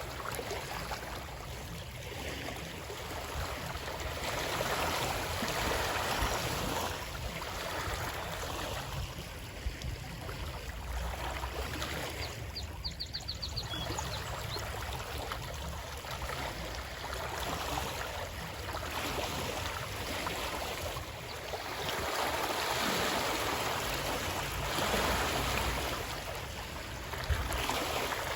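Water rushing and splashing, swelling and easing every four or five seconds. About halfway through, a short run of quick, high ticks.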